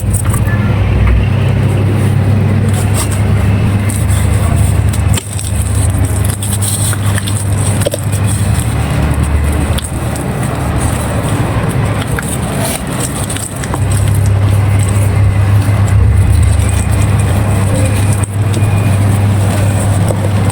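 Dry handmade red sand clay crumbling and crunching, with scattered short crackles, over a steady low rumble that dips in the middle and comes back strongly about fourteen seconds in.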